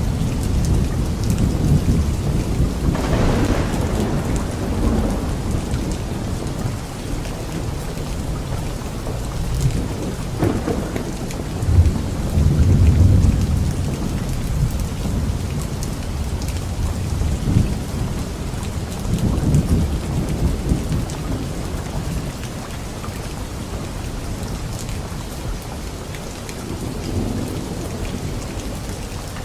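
Steady rain falling in a light thunderstorm, with several low rolls of thunder that swell and fade, the loudest about twelve seconds in.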